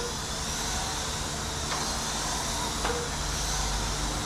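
A pack of 1/18-scale RC late model trucks racing, their small electric motors whining steadily over tyre and track noise. Two brief sharp clicks come about two and three seconds in.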